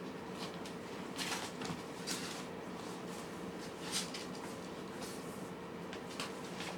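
Cats eating from dishes: irregular soft chewing, lapping and small clicking sounds, with a steady low hum underneath.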